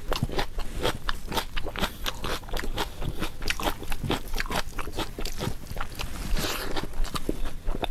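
Close-miked eating: a person biting and chewing food, many short, sharp, irregular crunches and wet mouth clicks.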